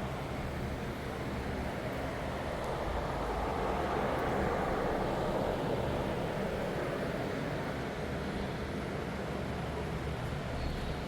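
Steady low engine drone under an even rushing noise that swells a little in the middle.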